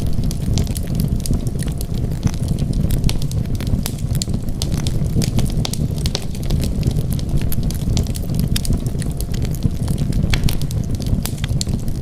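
Wood fire burning in a fireplace: many sharp crackles and pops over a steady low rumble of the flames.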